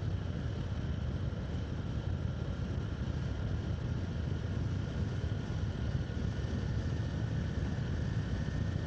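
Steady low rumble of wind and running noise from a motorcycle ride, picked up on the rider's microphone.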